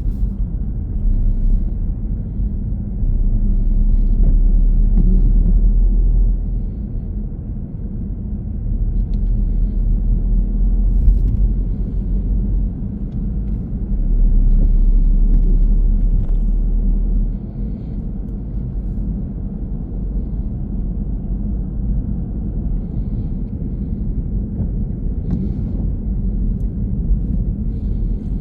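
A car being driven: steady low rumble of road and engine noise, swelling louder twice for a few seconds.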